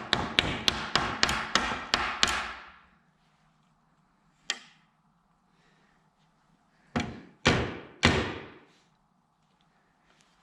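Hammer blows while fitting a replacement plastic piece to a rake: a quick run of about eight strikes, a single strike, then three more.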